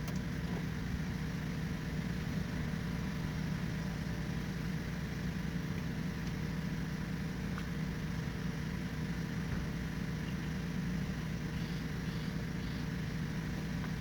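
Steady low machine hum that holds an even level throughout.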